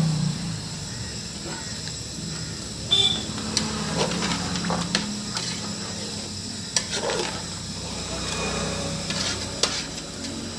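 Chicken curry boiling in a pot: a steady watery bubbling hiss, with several sharp clinks.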